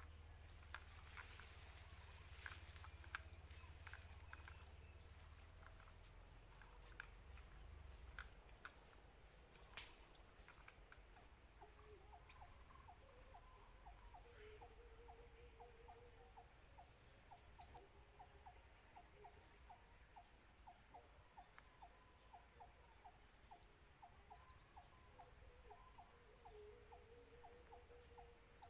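Insects, crickets or similar, trilling steadily at a high pitch. A couple of sharp knocks come about halfway through, and after that a regular ticking repeats about twice a second.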